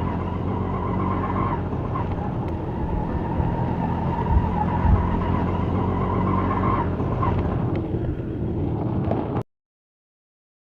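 A motor running steadily, with a high whine that swells and fades, then the sound cuts off abruptly about nine and a half seconds in.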